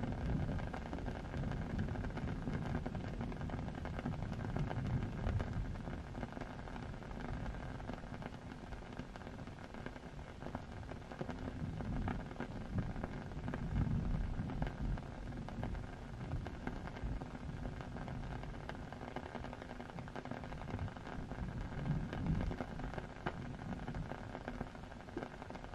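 Steady hiss of rain, with a low rumble that swells and fades every few seconds.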